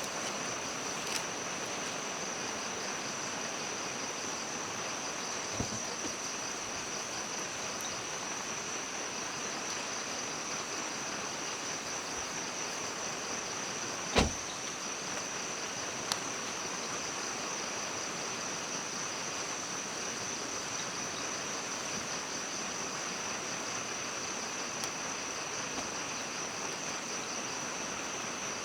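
Steady high-pitched insect chorus with a fine, even pulse, over a constant background hiss. A single sharp knock about halfway through.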